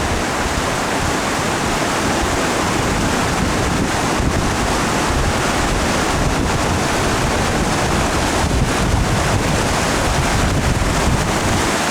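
Loud, steady rush of a waterfall swollen with snowmelt, with wind buffeting the microphone.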